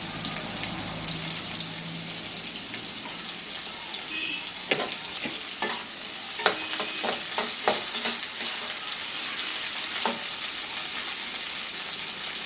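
Bitter gourd slices sizzling in hot mustard oil in a metal kadai: a steady frying hiss that grows louder about halfway through, as a spatula stirs them and scrapes and clicks against the pan several times.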